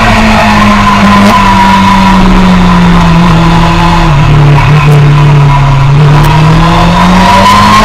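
Onboard sound of a Suzuki sport motorcycle's engine running hard on track, loud and close to the microphone. The engine note drops about four seconds in and climbs back up near the end as the rider eases off and gets back on the throttle.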